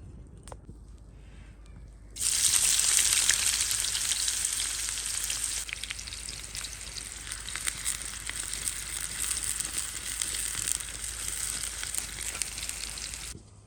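Food hitting hot oil in a frying pan and sizzling with crackles. It starts suddenly about two seconds in, is loudest at first, eases slowly, then cuts off near the end.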